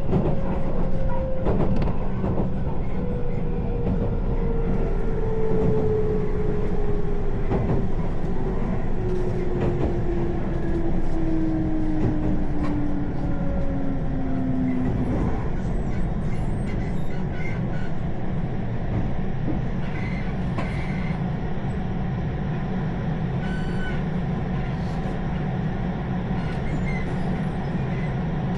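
Electric train running, heard from inside the carriage: a steady low rumble of wheels on track with occasional faint clicks. A whine falls steadily in pitch over about the first fifteen seconds, then fades out.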